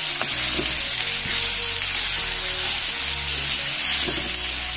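Shredded banana stem sizzling steadily in hot oil in a wok, with a wooden spatula stirring and turning it.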